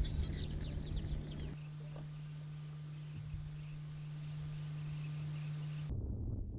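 Birds chirping in quick short calls, which stop about a second and a half in, followed by quieter outdoor ambience with a steady low hum. Low wind rumble on the microphone comes in near the end.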